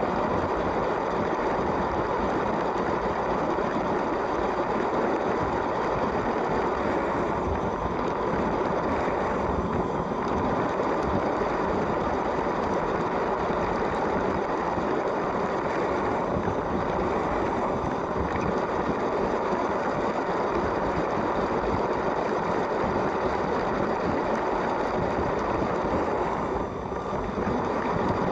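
LEGO train running steadily along plastic track: an even running noise from its electric motor and wheels, dipping briefly near the end.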